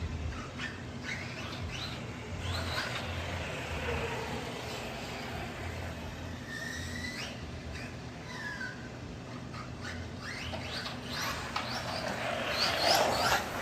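Team Associated Rival MT8 brushless RC monster truck being driven in short bursts, its motor whine rising and falling with a loud run about a second before the end. Short bird chirps are heard in between.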